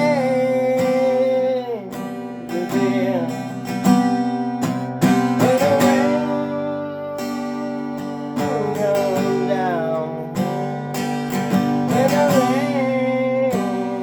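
Song music: strummed acoustic guitar chords with a sliding, wavering melody line over them.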